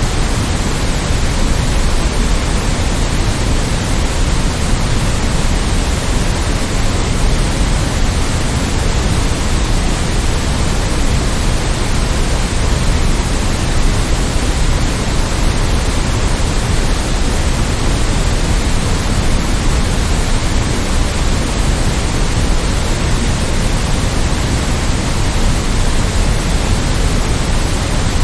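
Steady white noise for sleep: an even, unchanging hiss across all pitches, with a fuller low end underneath.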